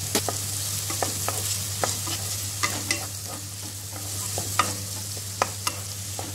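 Chopped onions, tomatoes and garlic sizzling in oil in a nonstick kadai as they are sautéed. A wooden spatula stirs them, knocking and scraping against the pan in sharp, irregular clicks.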